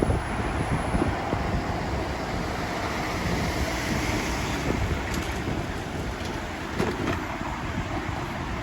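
Wind rushing and buffeting over the microphone of a moving motorbike, a steady gusty rumble mixed with road and traffic noise.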